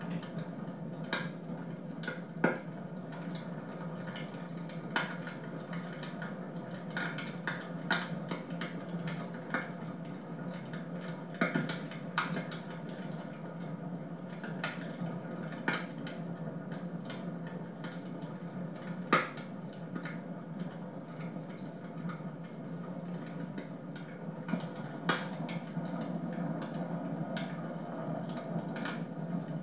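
Wood fire burning in a home fireplace, crackling with irregular sharp pops and snaps over a steady low hiss of the flames.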